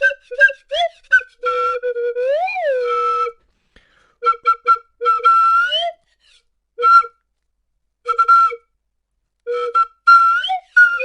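Series of short flute-like whistled notes, some swooping up and down in pitch, in bursts with abrupt silent gaps between.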